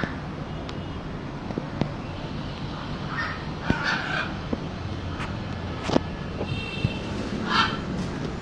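Parrot squawking in short, harsh calls, a cluster about three to four seconds in and another near the end, with scattered sharp clicks and knocks in between.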